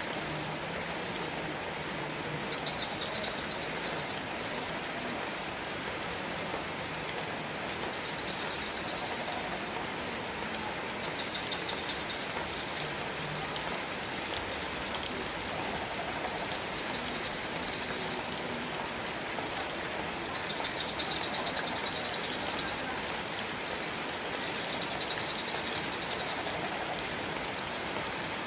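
Steady rain falling, an even hiss without let-up, with a faint high trill near the top coming and going several times.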